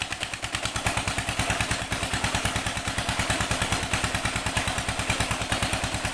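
Old 16-horsepower Petter diesel engine running steadily, with an even thudding beat of about eight firing strokes a second.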